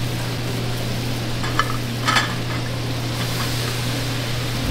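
Food frying and sizzling in a restaurant kitchen, a steady hiss over a steady low hum, with two light clinks about one and a half and two seconds in.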